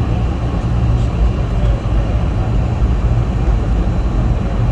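Steady, loud, deep rumble inside the cabin of a Boeing 717 airliner during its landing: airflow and engine noise.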